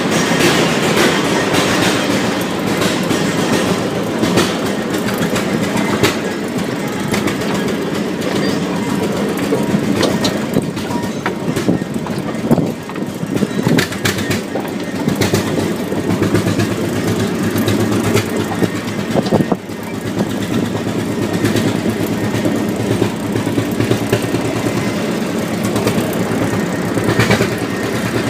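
A train running along the track: a steady rumble with scattered clicks and knocks from the wheels and rails.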